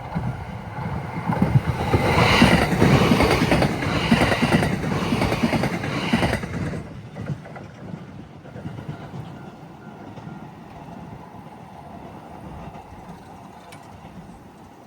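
JR West limited express train passing over a level crossing, its wheels clattering over the rail joints, loudest from about two to six seconds in and then dying away as it leaves.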